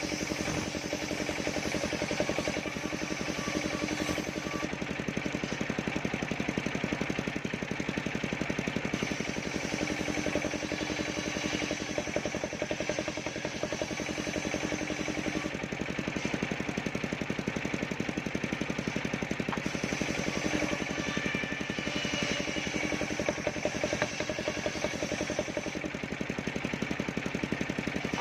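Engine powering a mobile circular-saw rig running steadily at constant speed, with a rapid even firing beat.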